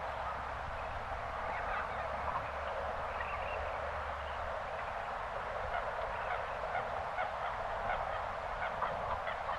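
A flock of birds calling: many short, overlapping calls throughout, over a steady outdoor background.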